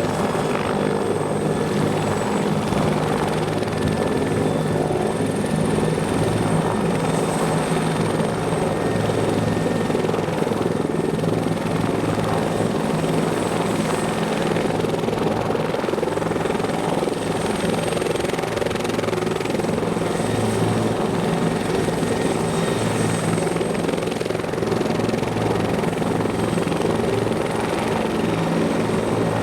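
Bell 412EP helicopter running steadily: its twin turboshaft engines and rotor make a constant drone with a thin, high-pitched whine over it.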